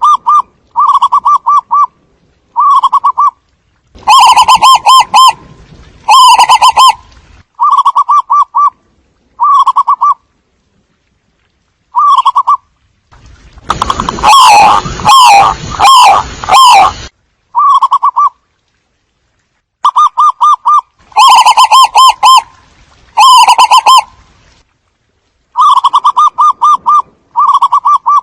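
Zebra doves cooing: short bursts of rapid, trilled coos, repeated every second or two. In the middle several calls overlap in a denser stretch.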